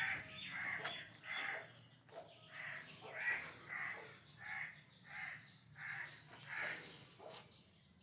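A bird calling over and over: about eleven short calls in a steady series, the last ones weaker.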